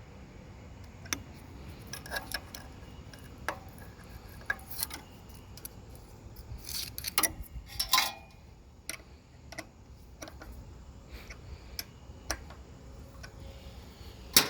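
Irregular metallic clicks and taps of hand tools on the small engine's ignition coil and mounting, with a short burst of rattling clatter about halfway through.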